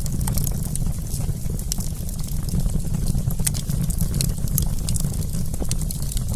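Wood campfire crackling, with many quick irregular pops and snaps over a steady low rumble.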